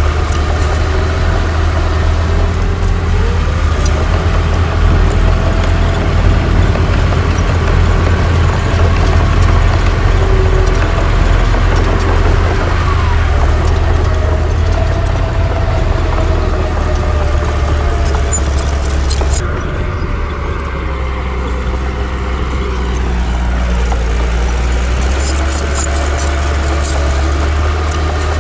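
Heavy diesel earthmoving machinery running steadily, a deep engine drone with a wavering higher whine over it. About two-thirds of the way in, the higher sound thins out and the level dips a little for a few seconds before coming back.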